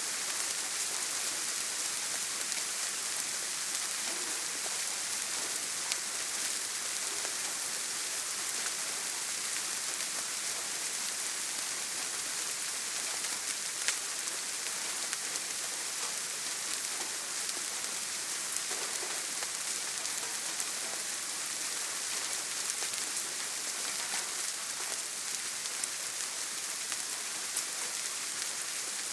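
Steady heavy rain on a tin roof: an even hiss with fine scattered drop ticks and an occasional sharper tap, one about fourteen seconds in. No thunder.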